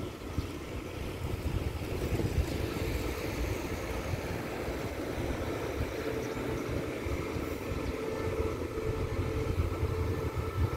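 Diesel locomotive of an express passenger train approaching along the track, a low rumble that grows slightly louder toward the end, with a faint steady tone joining about six seconds in.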